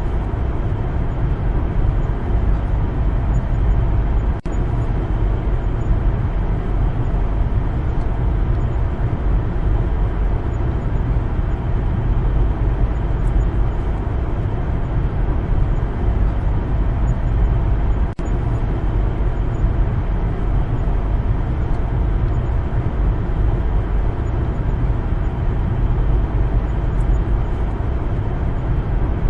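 Steady low rumble of a car driving along a road: tyre and engine noise, broken by two very brief dropouts, about four seconds in and again near eighteen seconds.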